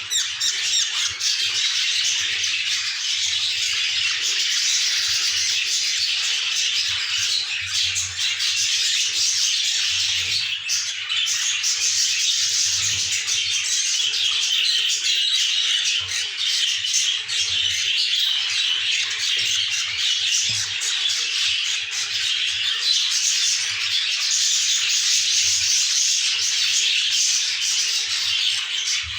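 Baby Hogoromo budgerigars calling together in a dense, continuous high-pitched chatter.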